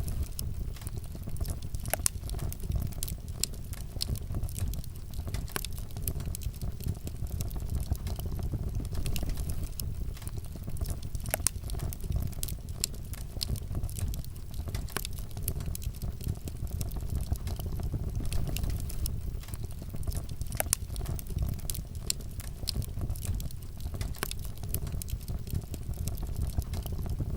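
Wood fire burning in a fireplace: a low steady rumble of flames with irregular sharp crackles and pops.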